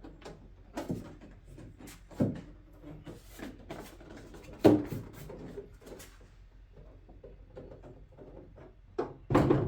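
Scattered knocks and clunks of a carbon fiber car hood being handled and set onto the car. The loudest knock comes about halfway through, and a quick run of heavier thuds comes near the end.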